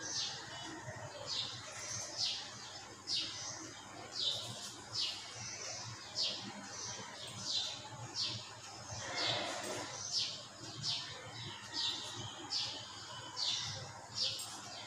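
A small bird chirping over and over, short high chirps about once a second, each dropping slightly in pitch.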